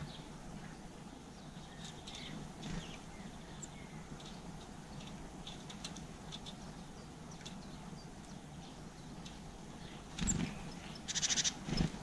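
Small garden birds giving short, scattered chirps and calls over a steady low background hum, with a couple of dull bumps and a short buzzy call near the end.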